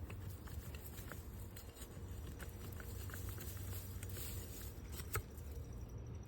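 A hand garden tool digging and scraping in loose soil, giving faint scattered clicks and scratches, with one sharper click about five seconds in, over a steady low background rumble.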